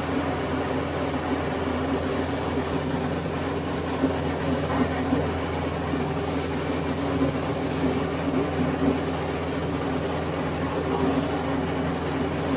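TYM T574 compact tractor's diesel engine running steadily under load while a PTO-driven rotary tiller churns soil.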